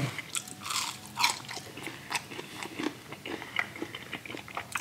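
A person chewing French fries, with irregular crunchy bites and wet mouth clicks.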